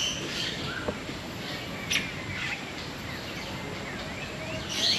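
Several birds chirping and calling, with short quick chirps scattered throughout over a steady background hiss and a cluster of calls near the end.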